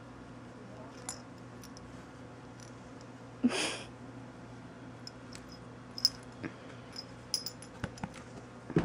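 A pet gives one short, breathy snort about three and a half seconds in, over a faint steady hum, followed by a few light clicks near the end.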